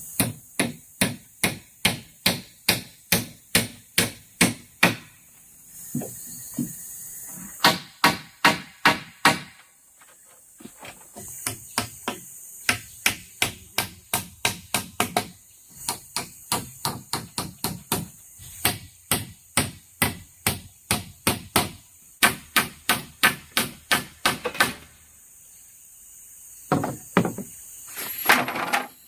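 A tool striking bamboo again and again, in quick runs of about three sharp strikes a second separated by short pauses.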